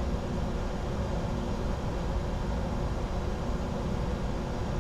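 Steady cockpit noise of a Bombardier Challenger 605 business jet in descent: airflow and engine noise, with a low rumble and faint steady hum.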